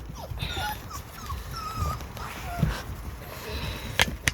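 Seven-week-old XL American Bully puppies whimpering and whining in short, high squeals, several overlapping. Two sharp clicks come near the end.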